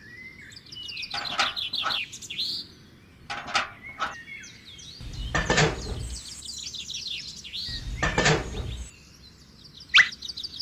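High chirping and whistling calls, like birdsong, coming in several loud clusters a couple of seconds apart, with a sharp rising whistle near the end.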